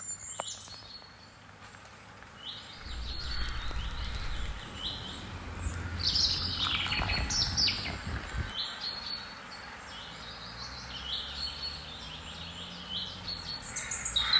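Small birds chirping and singing in short repeated phrases, with a low rumble underneath for several seconds in the middle.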